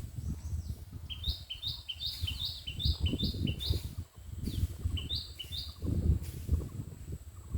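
A bird calls a quick series of short two-part notes, about eight in a run, then two more near the end, over an uneven low rumble.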